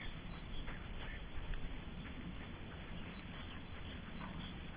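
Faint outdoor ambience: scattered short chirps of small birds over a low steady rumble.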